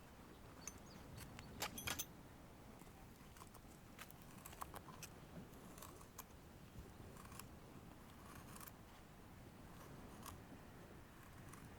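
Scattered light clicks and knocks of small objects being handled, with a quick cluster of sharper clicks about two seconds in, over faint background noise.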